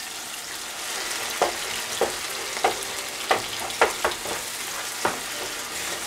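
Onion-tomato masala with crushed garlic and red chili paste sizzling in hot oil in a nonstick frying pan. It is stirred with a wooden spatula that knocks and scrapes against the pan about every half second to a second, starting about a second and a half in.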